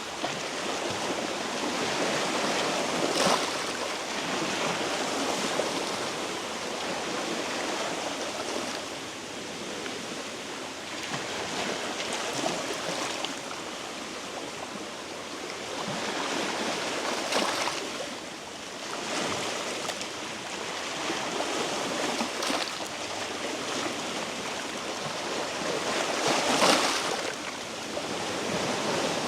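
Sea waves washing against shore rocks, a steady rush of water with a few louder splashing surges, the strongest near the end.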